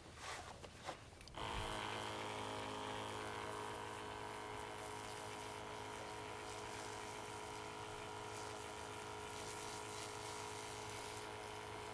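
A small electric motor switches on about a second in and hums steadily at an even pitch, after a few brief knocks and rustles.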